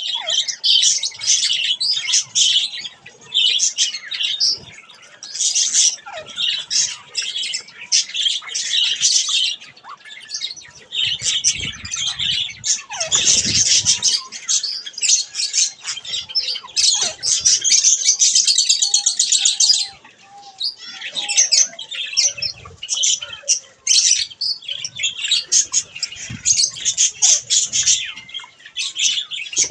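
Budgerigars chattering, chirping and squawking all through, many birds at once, with now and then a flutter of wings.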